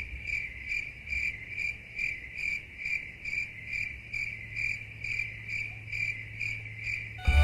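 Insect chirping steadily, about two to three short high chirps a second. Music comes in right at the end.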